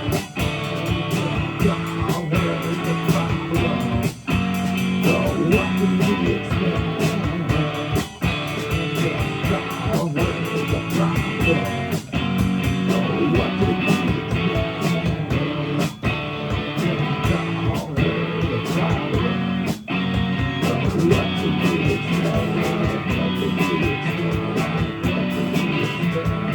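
Live band playing an instrumental passage led by guitar, with no vocals. The music breaks off briefly about every four seconds.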